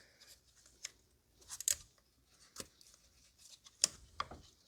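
A handful of short, faint clicks of hard plastic being handled: an ignition coil and its wiring connector being pushed into place on the engine.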